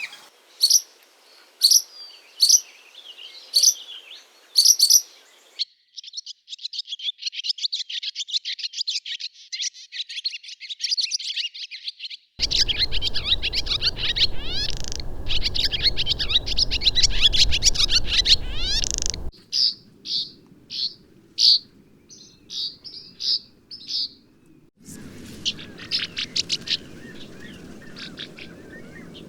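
Swallows calling in a string of separate recordings. Spaced sharp chirps give way to dense, fast twittering chatter, then a run of evenly spaced short call notes, then more twittering.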